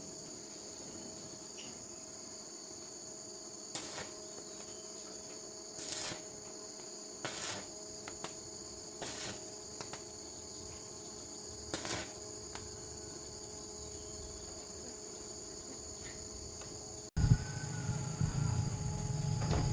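A steady, high-pitched chorus of insects, with a handful of sharp knocks or clicks. About 17 seconds in the sound cuts, and a louder low steady hum comes in.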